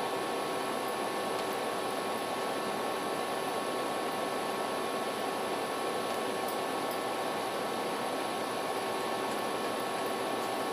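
Steady hiss with a few faint steady hum tones, unchanging throughout.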